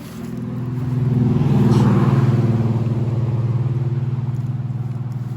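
A motor vehicle's engine running, swelling louder over the first two seconds and then holding steady.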